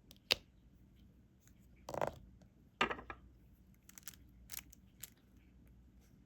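Hand work on a diamond painting: a sharp click, two short scraping, crunchy rustles about a second apart, then a few light clicks and taps.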